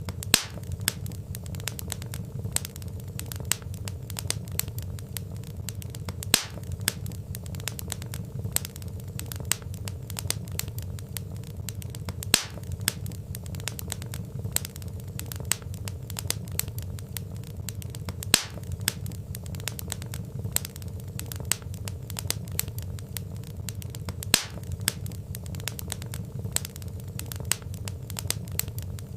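Wood fire crackling: a dense run of small sharp pops and snaps over a steady low rumble, with a louder crack about every six seconds.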